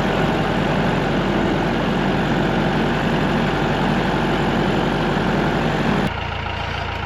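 Tractor engine running steadily under load on a bumpy dirt road. About six seconds in, the sound drops abruptly to a quieter, lower engine hum.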